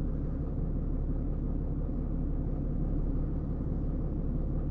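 A vehicle engine idling, a steady low rumble that does not change.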